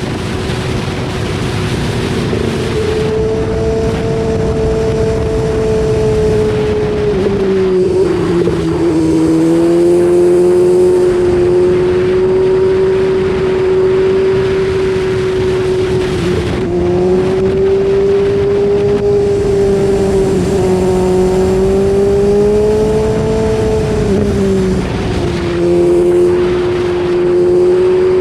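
BMW S1000RR's inline-four engine running hard at high revs under way, its pitch wandering up and down and dipping briefly a few times as the throttle and gears change.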